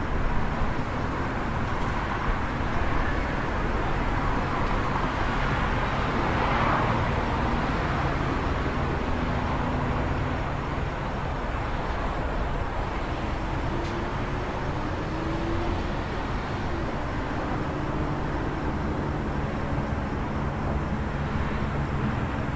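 City street traffic: a steady wash of road noise, swelling as a vehicle passes about six to seven seconds in, with faint low engine hums from other vehicles later on.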